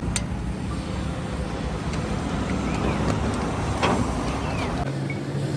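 A heavy engine running steadily with a low rumble, with a sharp click just after the start and a knock about four seconds in. Near the end the rumble settles into a steadier, slightly higher hum.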